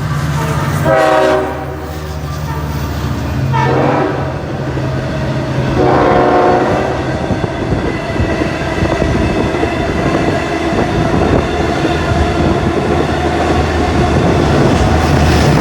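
Train horn sounding three blasts, about a second in, near four seconds and near six seconds, the middle one dropping in pitch as the train passes. Then the train rolls by with a steady rumble and wheels clacking over the rail joints.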